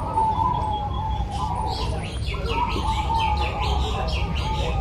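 Several zebra doves (perkutut) cooing at once in overlapping high, drawn-out notes. From about a second and a half in, quick falling chirps come about three to four a second.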